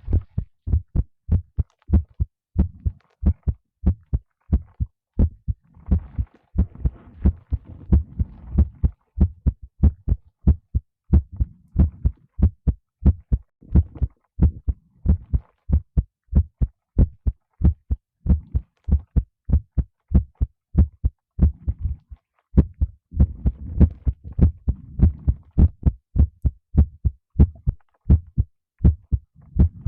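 A human heartbeat picked up by a microphone held against the chest, beating in a steady, regular rhythm of low thumps, with soft rustling now and then.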